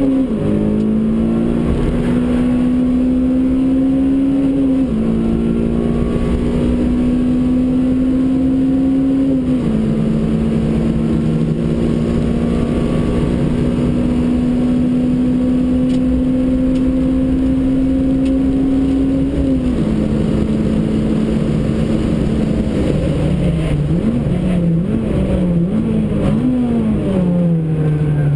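Honda Civic Type R (EP3)'s 2.0-litre four-cylinder engine, heard from inside the cabin under hard acceleration. It climbs in pitch through the gears, and the note drops at each of three upshifts. Under braking it then goes through a series of downshifts, with the revs rising and falling in quick succession before the note falls near the end.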